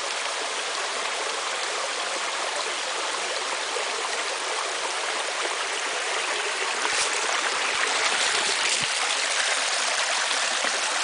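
A small creek's water running steadily over rocky cascades, growing a little louder about seven seconds in.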